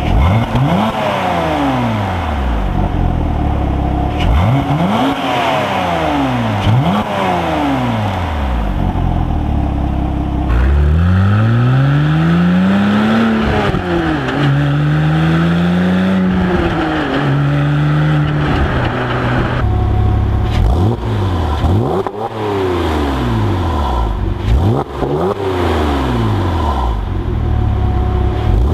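Porsche Cayman S 987's 3.4-litre flat-six exhaust, heard close at the tailpipes: a series of sharp free revs, each rising and falling quickly. Then a long run of acceleration with the pitch climbing and dropping twice at the upshifts. After a sudden cut about two-thirds of the way in, more sharp free revs.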